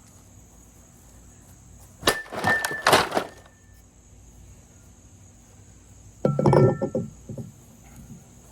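Metal baseball bat striking a plastic vacuum cleaner: a sharp clanging hit with a short metallic ring about two seconds in, and a second loud crash of impacts and rattling about six seconds in.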